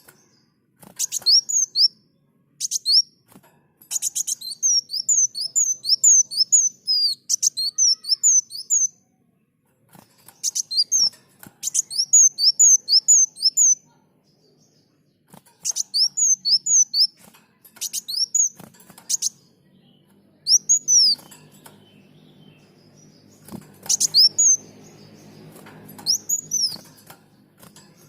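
Sunbird (kolibri muncang) singing in repeated bursts of quick, high chirping notes, each burst a second or two long with short pauses between them.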